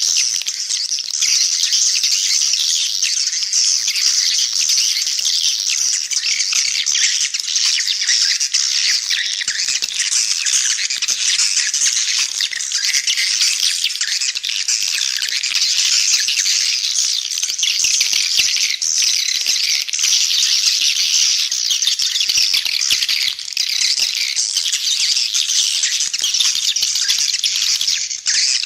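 Edible-nest swiftlets calling: a dense, unbroken chatter of rapid high-pitched chirps and trills from many birds. This is a swiftlet-house lure call, played to attract swiftlets to nest.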